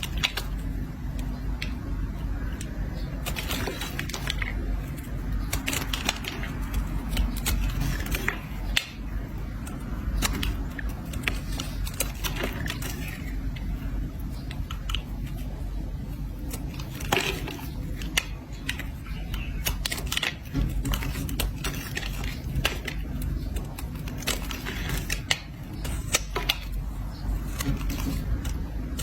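Blade scraping and cutting a bar of soap: irregular crisp scratches and crackles. A steady low hum runs underneath.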